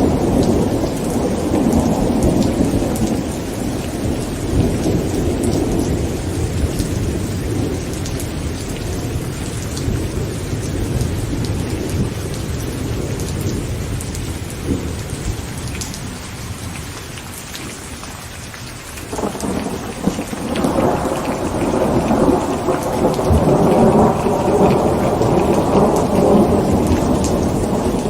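Heavy rain falling on a tent with rolling thunder: one long rumble slowly dies away, then a new roll of thunder breaks in about two-thirds of the way through and builds to its loudest near the end.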